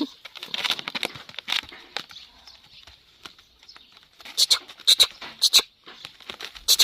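Pet animals moving about: light pattering and scratching of paws and claws, with a few sharper scratchy strokes about four to five seconds in.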